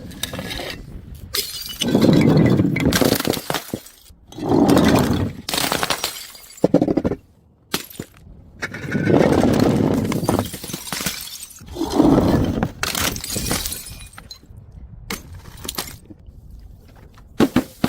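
Glass bottles smashing one after another, about four big crashes, each followed by the clatter of breaking glass that dies away over a second or so, with smaller knocks and clinks between them.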